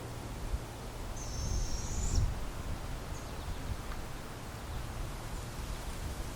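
Barred owlet giving a single high, slightly rising begging call about a second long, starting about a second in and cutting off sharply.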